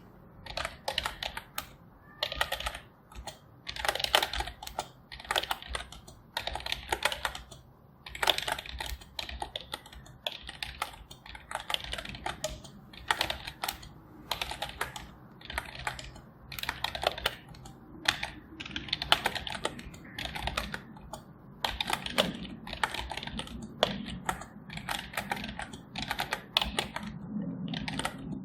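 Typing on a computer keyboard: quick runs of keystrokes in uneven bursts, separated by short pauses.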